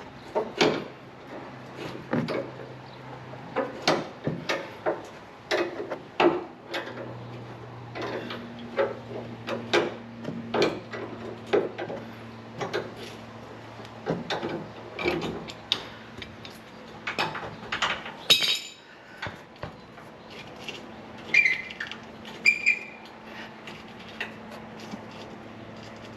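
Hand tools and metal parts clanking and knocking in irregular strokes, with a few short ringing metal clinks near the end, over a faint steady hum.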